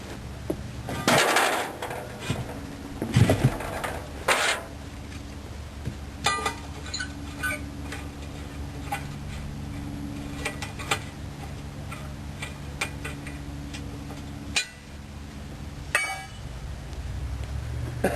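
Heavy metal clanks and knocks of tire-changing tools on a truck wheel: three loud clangs in the first five seconds, then a quick run of sharp clicks and a few scattered knocks, over a steady low hum.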